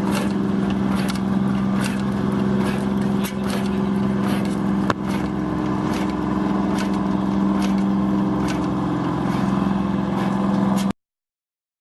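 An engine running steadily with a low drone and occasional light ticks, cut off suddenly near the end.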